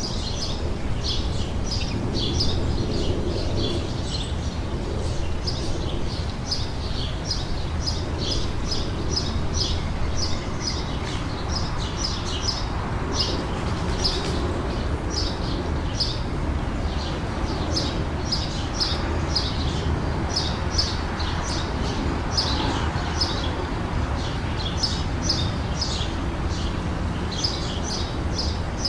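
Songbirds chirping continuously in the garden, a dense run of short high chirps several times a second, over a steady low background rumble.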